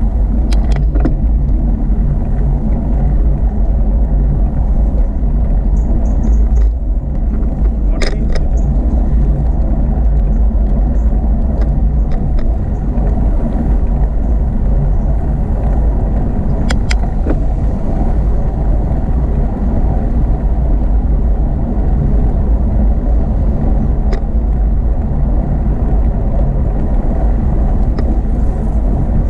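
Steady low rumble of wind buffeting the microphone and road noise on a moving bicycle, with a few short sharp clicks scattered through it.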